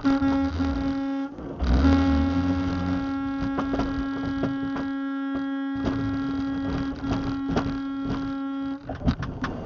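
A steady electrical hum with a stack of overtones, scattered with clicks. It drops out briefly about a second and a half in and cuts off near the end.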